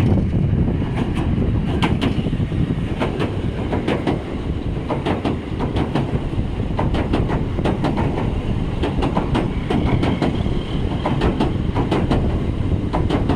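Train running on rails: a steady low rumble with frequent clicks and clacks as the wheels pass over rail joints.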